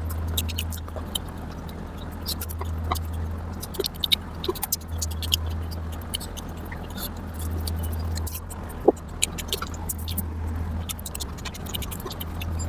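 Close-miked eating sounds of mutton fat curry with rice: wet chewing and mouth clicks, many small sharp ticks scattered throughout. A steady low hum runs underneath.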